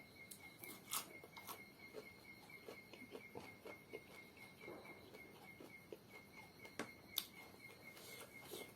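Soft, scattered chewing clicks and smacks from someone eating, with a cricket chirping steadily in the background as a rapid, even high-pitched pulse.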